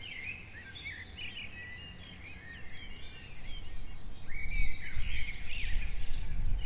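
Forest ambience of many birds chirping and calling, with a low rumble that swells from about halfway through.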